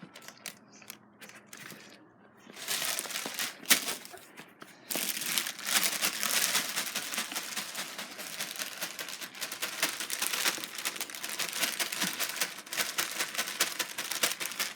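Plastic bag of in-shell peanuts crinkling as the peanuts are shaken out, their shells clattering against each other. It starts sparse with a few scattered ticks, then becomes a dense, continuous crackle from about two and a half seconds in.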